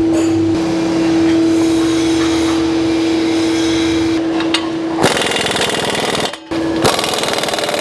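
A steady hum, then, about five seconds in, two bursts of a fast-rattling power tool, such as an impact wrench or air ratchet, with a short break between them, likely tightening exhaust hardware.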